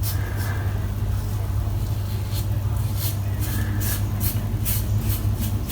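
Wunderbar stainless safety razor scraping stubble off a lathered scalp in short rasping strokes, coming more often in the second half, over a steady low hum.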